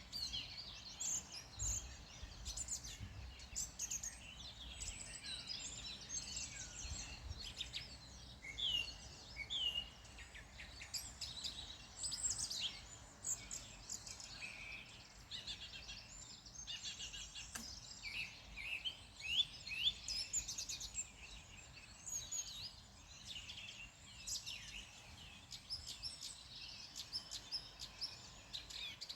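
Several birds singing and calling at once: a dense chorus of quick chirps, trills and short rising notes over a faint low rumble.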